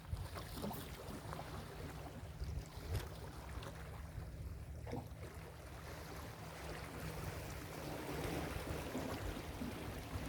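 Ocean surf washing on a beach, with wind rumbling on the microphone; a wave swells louder about eight seconds in.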